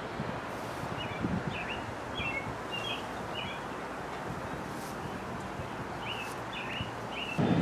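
Small birds chirping: short, quick chirps in a bout of several over about two seconds, then a few more about six seconds in, over a steady outdoor background hiss. Just before the end, a louder low rushing noise starts.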